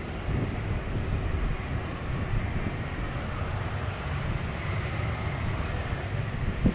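Steady rumble of jet aircraft noise with wind buffeting the microphone.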